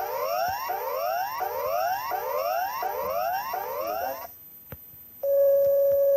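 Synthesized emergency-alert alarm: layered electronic tones sweeping upward, repeating about every three quarters of a second, which stop about four seconds in. After a short pause, a steady, loud alarm tone starts near the end.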